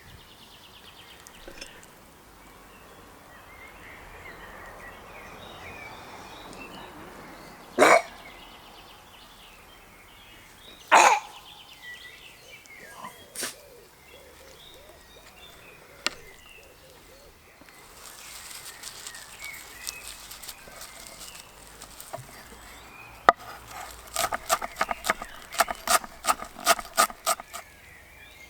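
Outdoor ambience with faint birdsong, broken by a couple of loud, short knocks. Near the end comes a quick run of sharp taps, about three or four a second.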